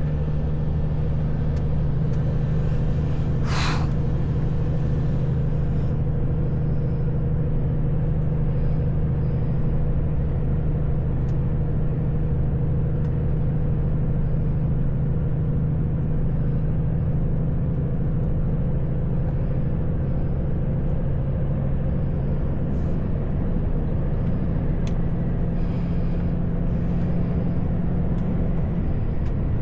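Truck's diesel engine droning steadily inside the cab as the truck gets moving. A short hiss of air comes about three and a half seconds in.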